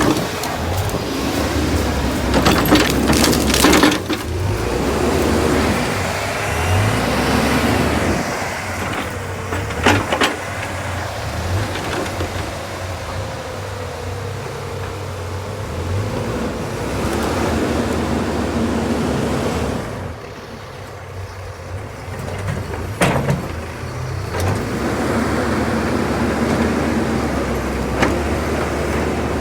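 Truck engine revving hard under load, the pitch rising and falling, with several sharp knocks and clunks, as the stuck truck is worked free off-road.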